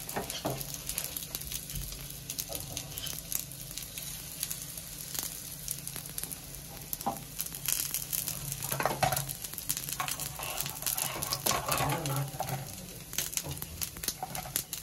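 Roat (wheat-flour dough cakes) sizzling and crackling steadily in ghee in a pan on a low flame, with a few louder knocks partway through.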